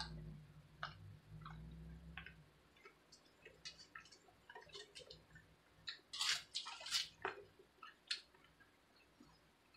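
Crispy fried ramen noodles being chewed close to the microphone, with scattered small crunches and mouth clicks, most of them about six to seven seconds in, and light taps of a wooden fork in the noodles. A low hum fades out about two seconds in.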